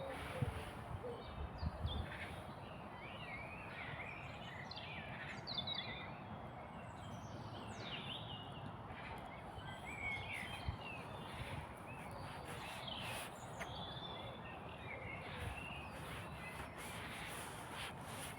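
Small songbirds chirping and warbling, many short calls overlapping, over a steady background rush of noise. A few soft low thumps in the first couple of seconds.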